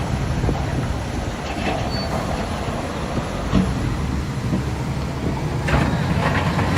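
Bulldozer's diesel engine running under load, with the squeal and clank of its steel crawler tracks; a cluster of clanks about six seconds in.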